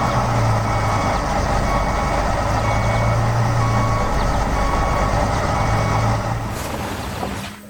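Heavy farm machine's diesel engine running steadily while a reversing alarm beeps on and off, fading out near the end.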